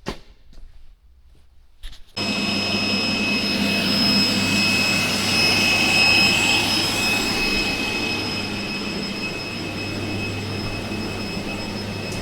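A few faint clicks, then about two seconds in a loud, steady machine roar starts abruptly, with a low hum and a thin high whine over it.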